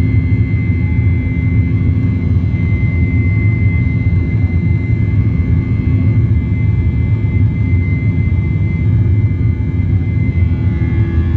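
Airliner engines heard from inside the passenger cabin: a steady, unbroken drone with a faint constant high whine.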